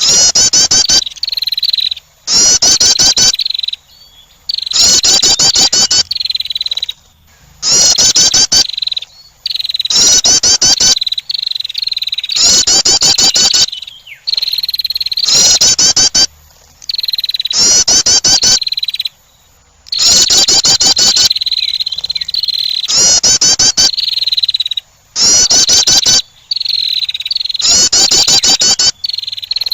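Female wren calling in repeated bouts about every two seconds. Each bout is a loud, rapid rattling trill, with a thin, steady high note between many of them: a lure call for attracting wrens.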